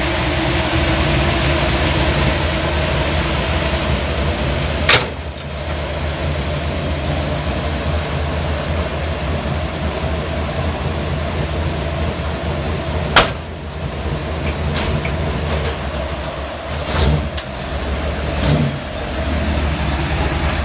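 Chevrolet Corvette 350 small-block V8 with a roller cam and four-barrel carburetor, idling steadily through a custom exhaust of cast iron headers into a 3-inch collector. There are two sharp clicks, about five seconds in and again about halfway through, and two brief swells in the engine sound near the end.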